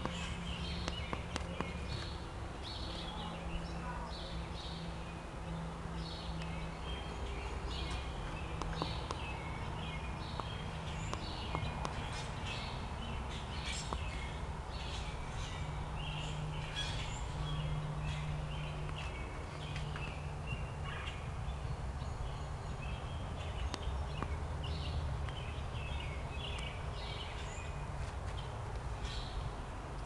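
Small birds chirping: many short, high chirps in quick runs throughout, over a low steady hum.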